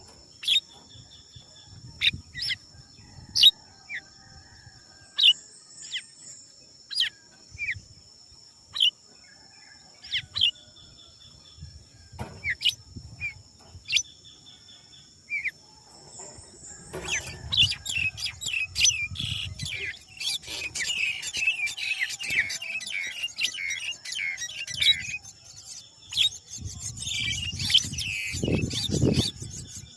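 Small birds chirping: single short, sharp falling chirps about once a second, turning into dense rapid chirping about halfway through, over a steady high-pitched insect drone.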